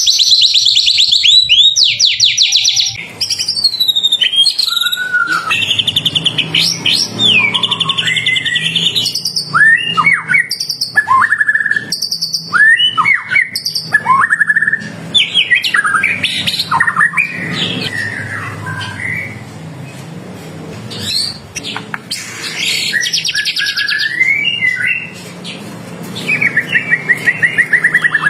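White-rumped shama (murai batu) singing loudly and continuously. Rapid rattling trills come at the start and again near the end, with varied whistled and slurred notes between them.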